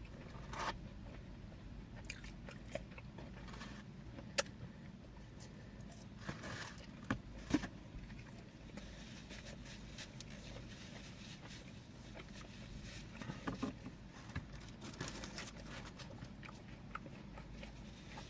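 Close-miked eating: chewing and biting into food with scattered mouth clicks and smacks, a few louder sharp clicks now and then.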